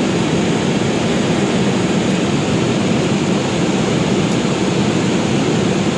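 Steady cabin noise of an Airbus A320 in cruise: an even rushing hum of engines and airflow heard inside the passenger cabin.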